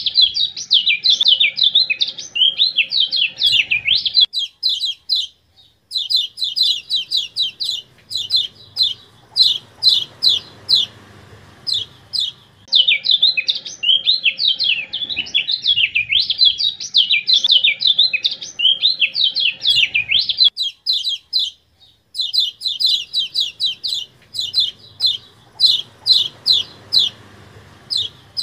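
Kecial kuning (yellow-spectacled white-eye) singing loud, rapid phrases of high chirps, alternating warbling runs with fast series of sharp repeated notes, broken by short pauses, as in a looped bird-song training recording. A faint low hum sits beneath.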